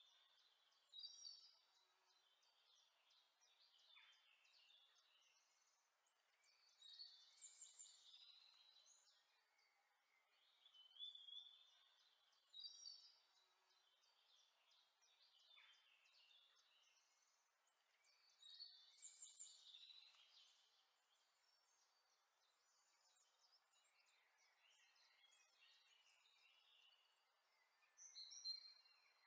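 Faint birdsong: short chirping, warbling phrases every several seconds over a quiet hiss.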